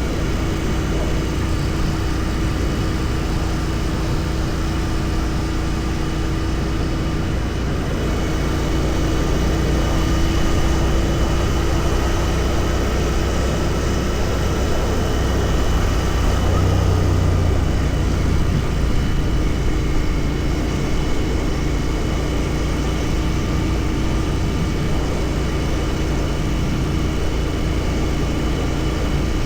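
Royal Enfield Continental GT 650's 648 cc parallel-twin engine running steadily under way, heard from the rider's position with road and wind noise. It gets a little louder twice, about a third of the way in and again past the middle, as the throttle is opened a little.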